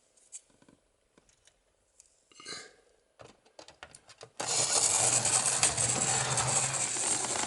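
Mainline Railways OO gauge 2251 Class model steam locomotive running along the track, its motor and wheels making a loud, steady hum and rattle that starts suddenly about four and a half seconds in; before that only a few faint clicks.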